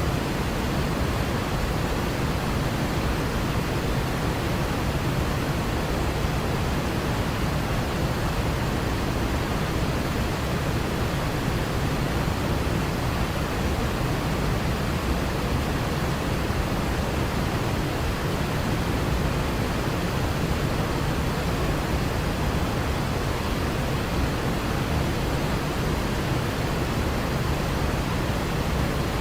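Waterfall: water falling in a steady, unbroken deep rush.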